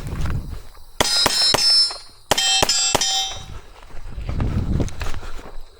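Two quick strings of pistol shots, each shot answered by the ringing clang of steel targets being hit. A first group of about three shots comes about a second in and a second group of about five shortly after, the ringing trailing off after each.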